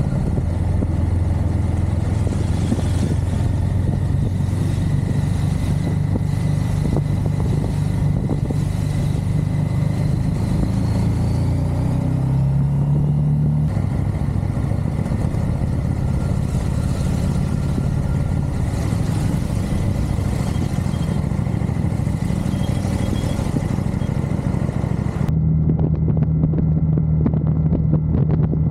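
Motorcycle engine running under way, its note rising and falling with the throttle, with wind and road noise over it; the engine pitch climbs briefly about halfway through, and the high hiss cuts out suddenly near the end.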